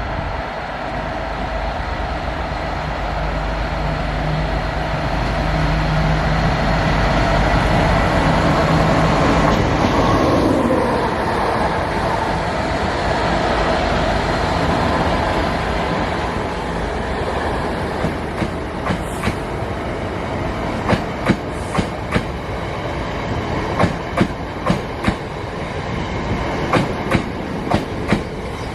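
Class 66 diesel locomotive, with its EMD two-stroke V12 engine, passing; the engine note drops in pitch about ten seconds in as it goes by. After that the wheels of the hauled Class 465/9 unit give a rhythmic clickety-clack over the rail joints.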